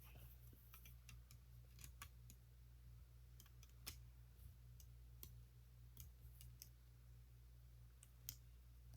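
Faint, scattered clicks of plastic Lego bricks being handled and pressed together, a dozen or so at irregular intervals, over a faint steady low hum.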